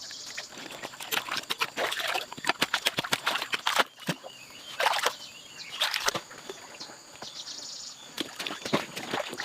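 Dry leaves and twigs crackling and snapping in irregular bursts of sharp clicks, as when they are trodden on or handled, over a faint steady high whine.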